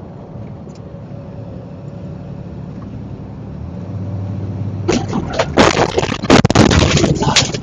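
Road vehicle running steadily, then about five seconds in a dense run of loud bangs and crunching impacts lasting a couple of seconds, as in a vehicle collision.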